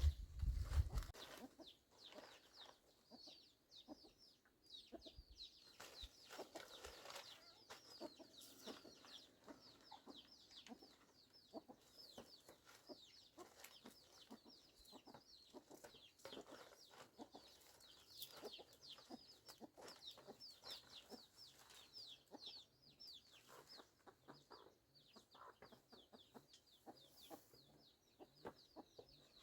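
Chickens clucking and peeping: a steady run of short, high, falling chirps, with a few knocks in the first second.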